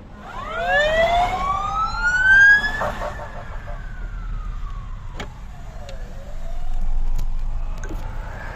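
Emergency vehicle siren wailing: the pitch climbs for about three seconds, slides back down, then climbs again near the end.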